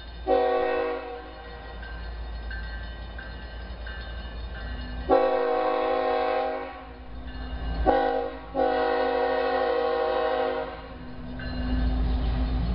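Diesel freight locomotive air horn sounding four blasts, short, long, short, long, over the low rumble of the GE locomotives' engines, which grows louder near the end.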